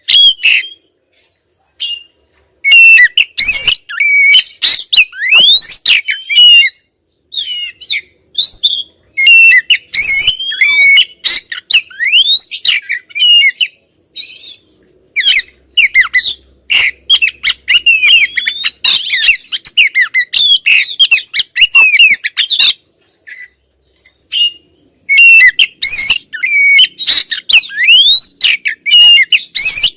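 Female oriental magpie-robin (kacer) calling insistently: rapid runs of sharp whistles and rising and falling chirps, broken by a few short pauses.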